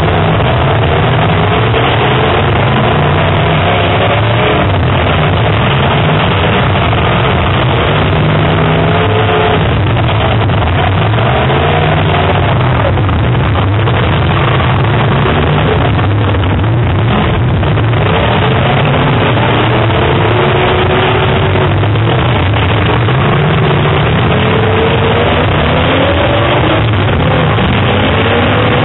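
Several demolition derby cars' engines revving at once, their pitches rising and falling over one another in a loud, steady din.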